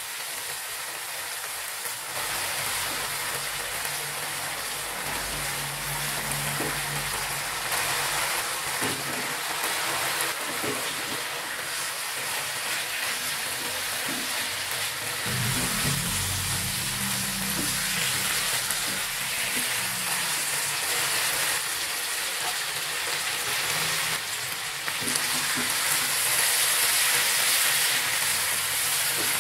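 Chili paste, and then chunks of fried tofu and eggplant, sizzling in hot oil in a wok while a wooden spatula stirs and scrapes them around. The sizzle grows louder over the last few seconds.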